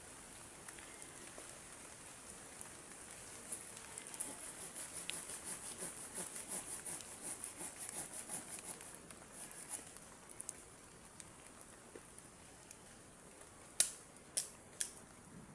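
A hand tool working at something in rapid, even scraping strokes, about five a second, for roughly five seconds. Near the end come three sharp clicks.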